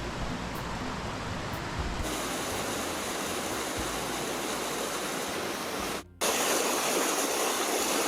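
Waterfall, steady rushing and splashing water. It cuts out for a split second about six seconds in and returns a little louder.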